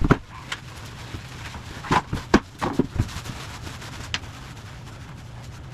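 A scattered series of sharp knocks and cracks, about ten, bunched around the middle, over a low steady hum.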